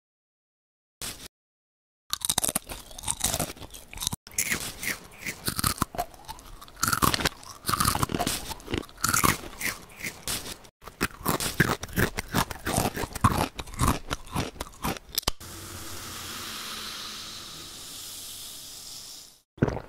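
Crunchy snacks being chewed, a dense run of crisp bites and crunches starting about two seconds in. Near the end the crunching stops and a steady fizzing hiss follows, like a freshly opened can of carbonated soda.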